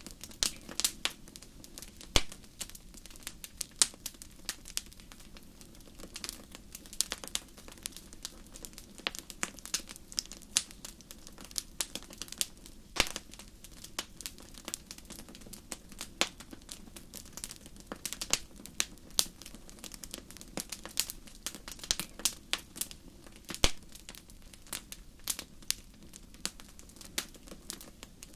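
Wood fire crackling in a fireplace: a dense, irregular run of sharp pops and snaps over a low steady rumble of the flames.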